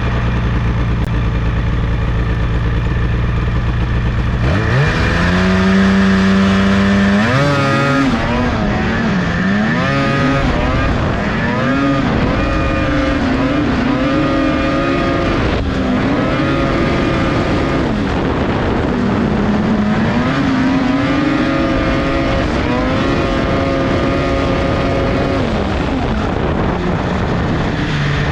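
Lynx RS600 snowmobile's two-stroke engine idling, then revved: a rise to a held higher speed about five seconds in, followed by repeated blips up and down, settling back to idle near the end.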